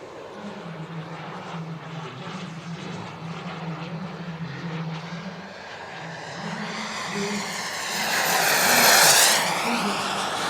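Gas-turbine RC jets of the Elite Aerosports Havoc and Havoc SS flying in formation. A steady jet rush builds to a loud close pass about nine seconds in, the high turbine whine dropping in pitch as they go by.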